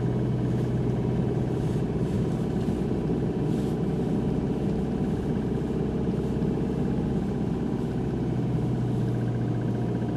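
Engine running steadily at a constant speed, a low hum that does not rise or fall.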